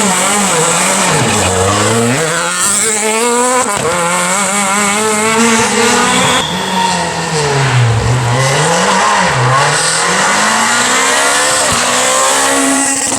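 Renault Clio R3 rally car's four-cylinder engine driven hard, its revs climbing and dropping again and again as it accelerates and lifts off.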